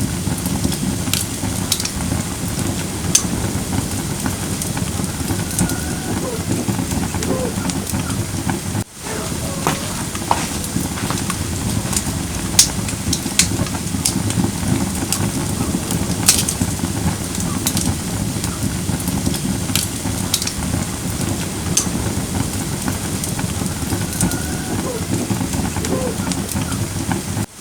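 Firewood burning in a fire pit: a steady low rush of flame with sharp pops and crackles scattered throughout, and two brief drops in level, about nine seconds in and near the end.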